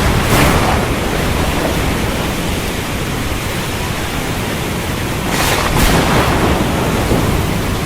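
Stormy wind and rough sea making a steady rushing noise, with two brief louder surges, one just after the start and one about five and a half seconds in.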